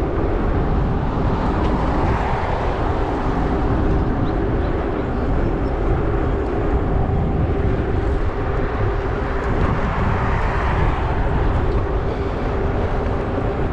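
Riding noise from a 20-inch fat-tire electric bike underway: steady wind rumble on the microphone and road hum, with a steady pitched drone running under it.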